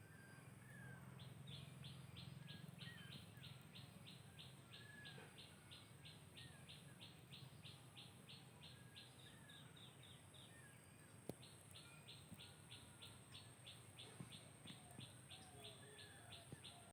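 Faint outdoor ambience: scattered bird chirps over an insect call that pulses evenly about three times a second, with a steady high whine beneath.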